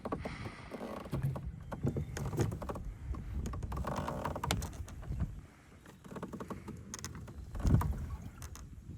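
Scattered clicks and knocks of handling and gear on a kayak over a low, uneven rumble, with one louder thump late on.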